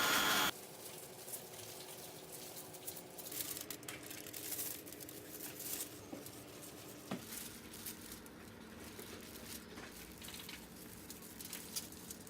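An electric drill driving a homemade cotton candy spinner runs loudly and cuts off abruptly about half a second in. Faint scattered crackling and light rustling follow.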